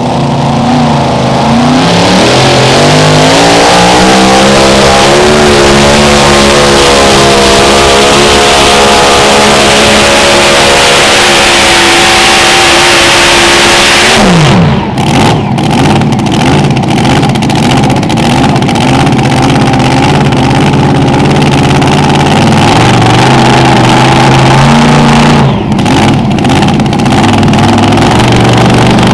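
A Mini Rod pulling tractor's engine at full throttle during a hook. Its pitch climbs over the first few seconds and holds high, then falls sharply about halfway through as the throttle is lifted. The engine then runs lower, with uneven blips.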